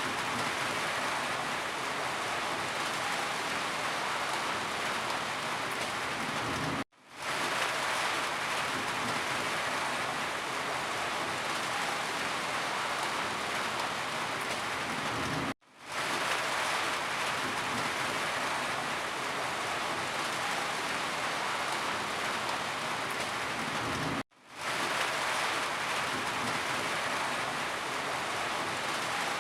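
Steady, heavy rainfall hissing on surfaces. The sound cuts out suddenly three times, about every nine seconds, and swells quickly back in.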